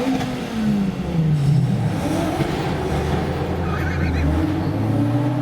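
Car engine revving, its pitch falling and rising several times over a steady deep exhaust rumble as the car pulls away.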